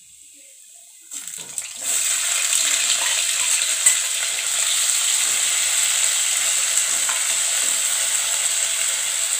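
Raw potato pieces dropping into hot oil in an aluminium kadai and frying with a loud, steady sizzle that starts about two seconds in, with one sharp click about four seconds in. A spoon then stirs the potatoes through the sizzling oil.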